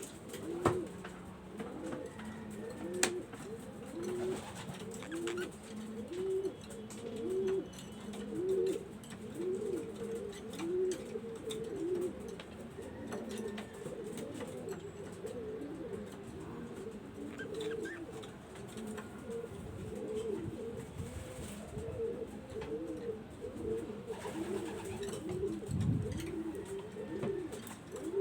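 Pigeons cooing: a long run of low, repeated coos, with a couple of sharp clicks in the first few seconds.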